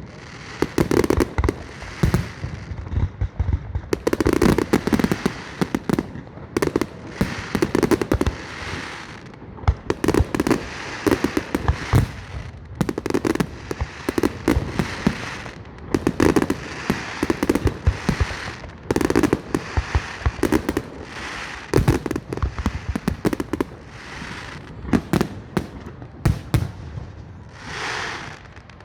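Fireworks display: aerial shells bursting in rapid succession, sharp bangs and deep booms every second or two, with crackling between them.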